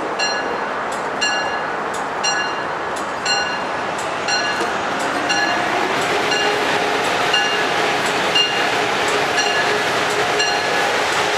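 Amtrak HHP-8 electric locomotive drawing in alongside the platform, the train's rumble growing louder as it nears, with a bell ringing steadily about twice a second.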